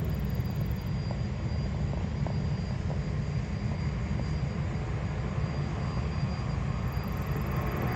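Jet airliner engines running steadily at the airport, a continuous deep rumble with a thin high whine on top that gets a little brighter near the end.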